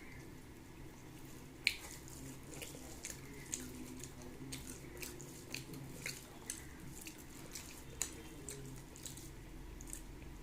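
Wet mouth clicks and smacks of someone chewing a meal of rice and curry, coming irregularly about once or twice a second, with a sharper click about two seconds in. A faint steady low hum runs underneath.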